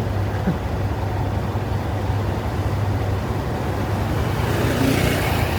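Honda Monkey's small single-cylinder engine running low in slow traffic, with road and traffic noise and wind on the camera's built-in microphone. A brief louder hiss rises and fades near the end.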